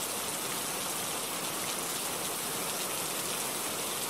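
Steady rain falling, an even hiss of drops with no music over it.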